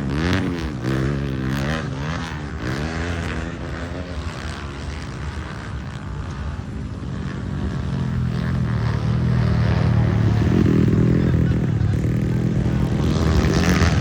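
Dirt bike engines revving, their pitch swooping up and down several times in the first few seconds, then a steadier engine drone that grows louder toward the end.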